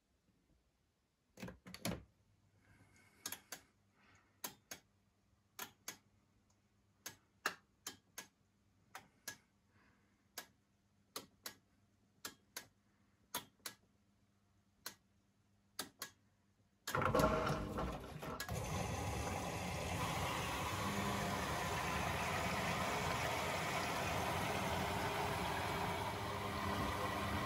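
Blomberg fuzzyDigitronic Granat 3200 washing machine starting a cycle: sharp clicks about once a second, some in pairs, over a faint electrical hum. About two-thirds through, a loud steady rushing noise starts suddenly, typical of water filling the machine.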